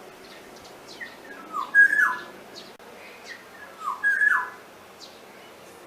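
Mynas calling: two pairs of loud, short notes that slide downward, the first pair about a second and a half in and the second about four seconds in, with softer chirps between.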